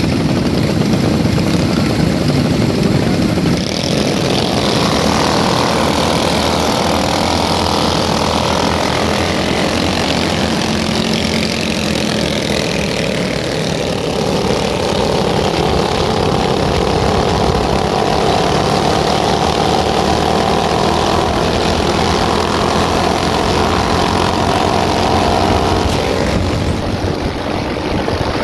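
Small motorcycle and minibike engines running as a group of riders pulls away and rides along. The engine note drifts up and down with the throttle over a steady low rumble of wind on the microphone.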